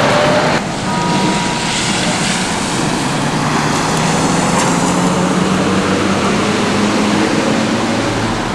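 Heavy truck's diesel engine running steadily under a continuous noise.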